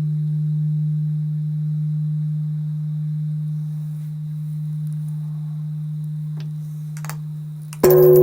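Large Japanese temple bell (bonshō) humming as it slowly dies away after a strike, a steady low hum. It is struck again near the end, a sudden loud clang that rings on.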